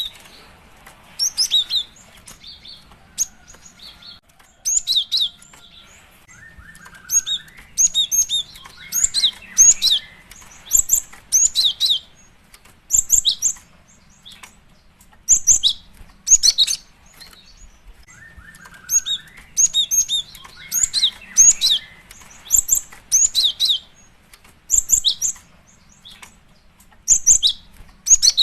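Female cinereous tit (gelatik batu) calling: short clusters of high, sharp chirps, one every second or two, with a repeating pattern.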